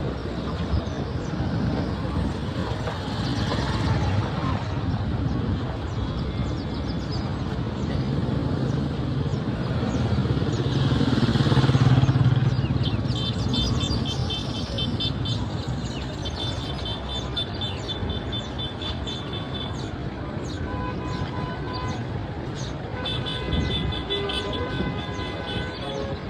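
Street traffic of cars and motorcycles going by, with one vehicle passing close and loud about halfway through. In the second half a high, rapidly pulsing tone sounds in several stretches, like a horn or beeper.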